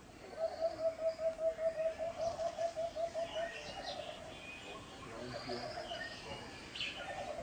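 Bird calls: a fast run of low, evenly repeated notes, about six a second, for roughly three seconds, followed by weaker runs of the same and scattered higher chirps.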